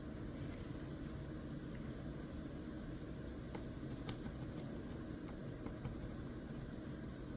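A scratch-off lottery ticket being scratched, heard as a few faint sharp ticks about halfway through, over a steady low hum.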